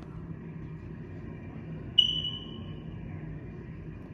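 A single bright, high-pitched ping about two seconds in, sharp at the start and fading over about a second, over a steady low hum.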